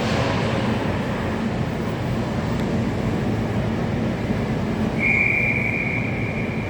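Steady ice-rink arena noise, then about five seconds in a long, steady, high whistle blast from a referee's whistle, the signal that stops play.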